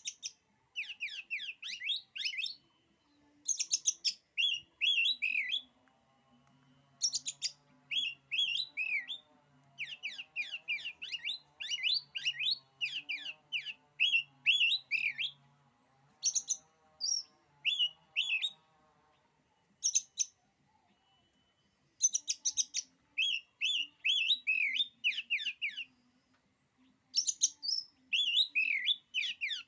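Oriental magpie-robin (kacer) singing: repeated phrases of rapid, varied chirps and whistles, each about one to three seconds long, with short pauses between them.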